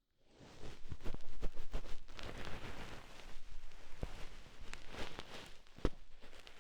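Ear-cleaning tool rubbing and scratching against a binaural microphone's ear: a close, dense scratchy rustle with many small clicks, starting a moment in after silence.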